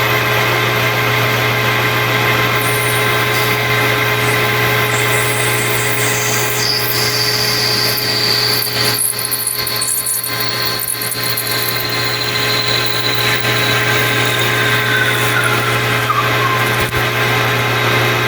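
Metal lathe running, with a parting tool cutting into a Delrin (acetal) bar: a steady motor hum, with a high whine that sets in about a third of the way through and slowly falls in pitch.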